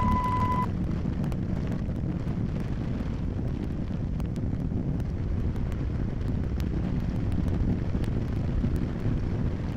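Steady low rumble of a car with wind noise on the microphone, and faint scattered ticks. A steady high-pitched beep stops under a second in.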